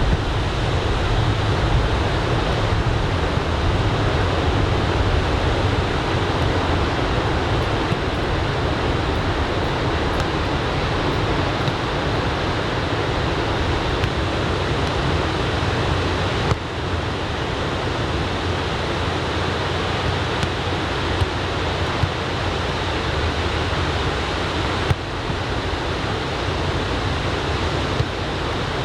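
Surf from a typhoon swell breaking on the beach: a steady wash of wave noise, with some wind.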